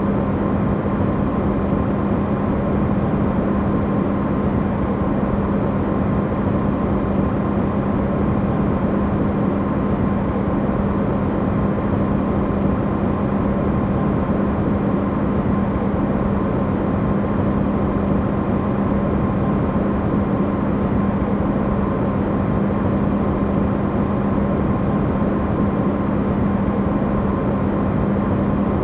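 Electrolux refrigerator running, recorded amplified: a steady hum with a low tone and a fainter higher tone over an even rushing noise.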